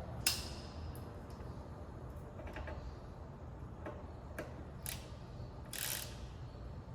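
Metal hand tools clicking and clinking on motorcycle hardware. There is a sharp metallic clink with a brief ring just after the start, a handful of lighter clicks spread through the middle, and a short rattle near the end.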